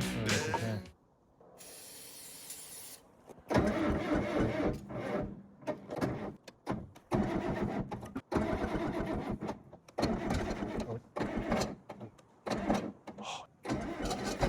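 A D4 bulldozer's diesel engine being cranked over by its starter in a string of short attempts, a cold start in well-below-zero weather.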